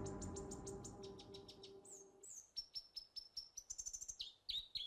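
Background music dies away over the first two seconds, leaving small birds chirping in quick, high repeated notes, some of them sliding down in pitch.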